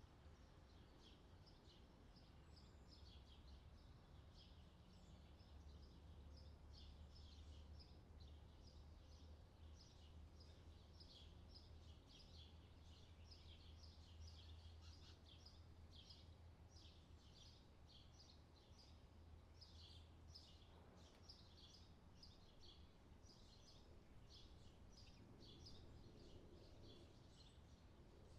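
Faint outdoor summer ambience: small birds chirping steadily, many short calls overlapping, over a low steady rumble.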